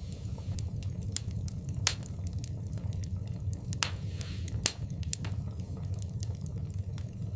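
Wood fire burning in a fireplace, crackling with irregular sharp pops and snaps over a steady low rumble of the flames, and a short hiss about four seconds in.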